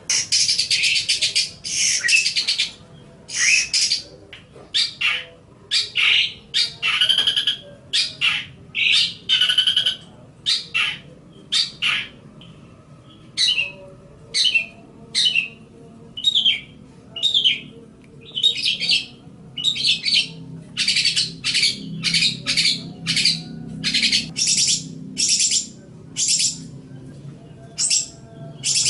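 Long-tailed shrike (cendet) singing a rapid, varied chatter of short harsh and buzzy notes, phrases packed closely together with a few brief pauses.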